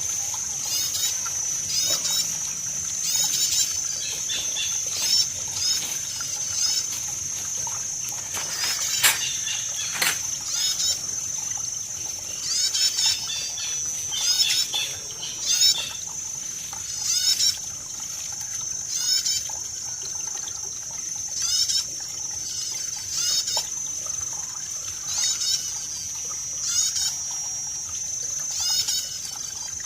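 Water trickling and flowing, with a bird calling over and over in short chirps every second and a half or two, over a steady high-pitched whine.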